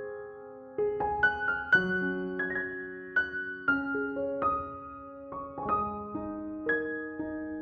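Background piano music: a gentle melody of single struck notes, several a second, each ringing out and fading.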